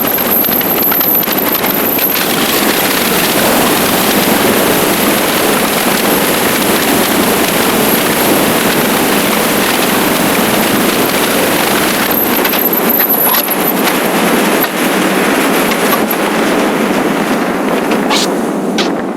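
Steady rush of wind and road noise over the microphone of a motorcycle riding at speed.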